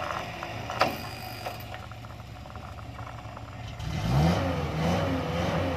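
Suzuki Vitara's engine running low and steady under load on a steep dirt climb, then revving up about four seconds in. A sharp click sounds about a second in.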